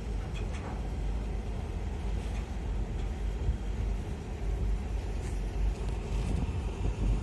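Low, uneven rumble of wind buffeting the microphone, with no clear tone.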